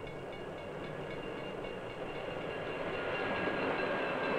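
Diesel-electric passenger train running on the rails: a steady rumble that grows gradually louder, with a few faint high steady tones above it.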